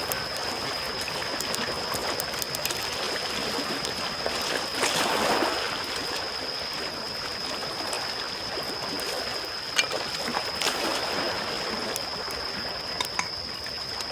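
Small waves lapping on a shore with a wood campfire crackling, its sharp pops scattered through, one louder pop about ten seconds in. A wave washes in a little louder around five seconds in. A thin steady high tone runs underneath.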